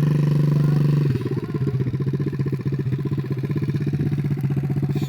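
Small 50cc dirt bike engine running at low throttle, a little stronger for about the first second, then easing back to a steady low run.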